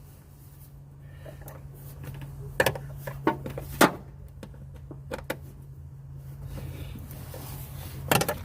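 Hand tools clicking and knocking against metal as the mounting bolts of a replacement blower fan motor are tightened: a few separate sharp clicks, spaced irregularly, over a steady low hum.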